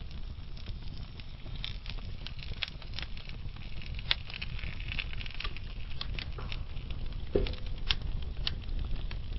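Logs burning in a wood fire: a steady low rumble of flame with scattered sharp crackles and pops at irregular intervals, one of them louder about seven seconds in.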